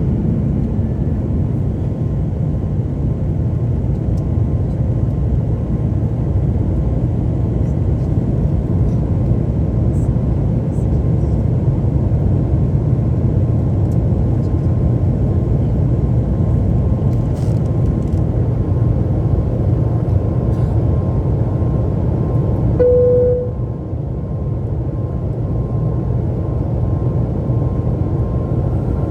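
Airliner cabin noise in flight: a steady roar of the jet engines and airflow, with a faint constant hum. About two-thirds of the way through, a single short tone sounds once.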